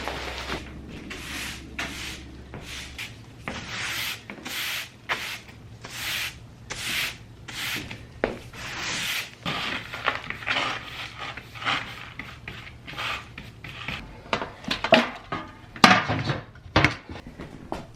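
Repeated scraping and rubbing strokes, about one or two a second, with a few sharper knocks near the end.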